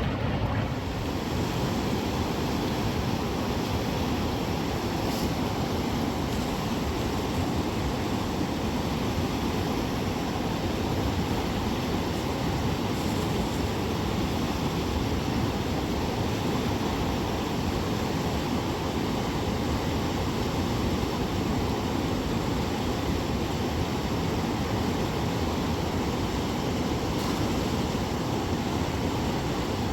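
Steady rushing of a fast-flowing river, an even noise that holds at one level throughout.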